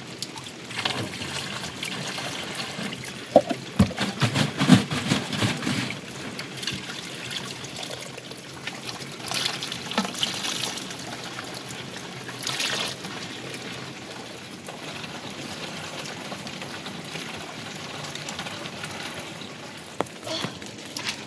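Rainwater trickling and pouring steadily during heavy rain, with a short run of knocks and clatter a few seconds in.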